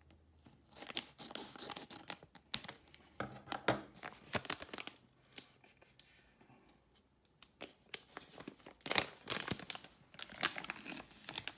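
A sports-card mystery pack being torn open by hand: its wrapper crinkles and tears in two bouts of sharp crackling, with a quieter pause in between.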